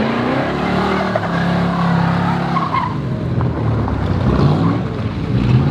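Pre-war sports car's engine revving hard as the car accelerates away. The pitch rises at the start, holds, then climbs again about four seconds in.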